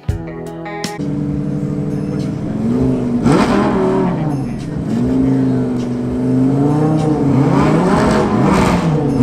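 Sports car engine revving, its pitch climbing and dropping in quick blips about three seconds in and several more times near the end.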